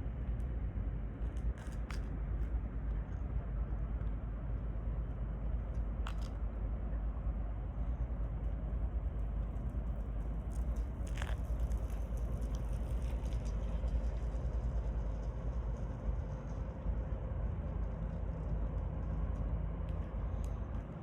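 Steady low rumble of outdoor ambience, with a few faint clicks.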